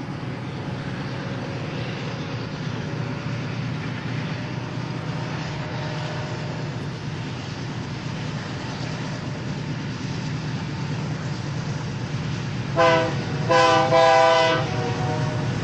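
Diesel freight locomotives running with a steady low rumble; near the end the locomotive horn sounds a short blast and then a longer one.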